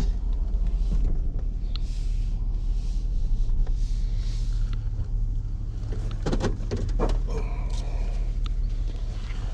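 Vehicle engine idling with a steady low hum, with a few clicks and knocks about six to seven seconds in.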